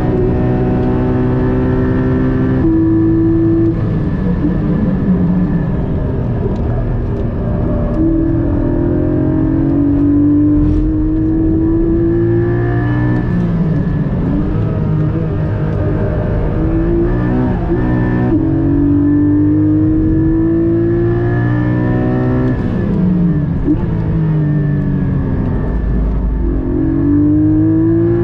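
Porsche 718 Cayman GT4's 4.0-litre flat-six at full-throttle lap pace, heard from inside the cabin. The engine pitch climbs under acceleration and drops sharply at each upshift. Between the climbs it falls away as the car brakes and shifts down for corners.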